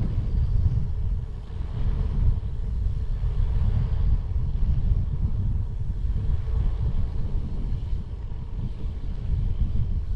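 Wind rumbling and buffeting on the microphone of a camera carried on a moving bicycle, a steady low rumble with small surges.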